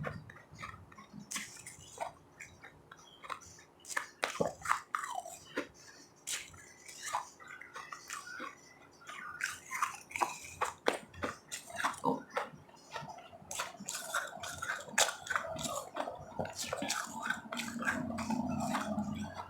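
A person chewing and crunching ice close to the microphone: irregular sharp crunches that come thicker in the second half.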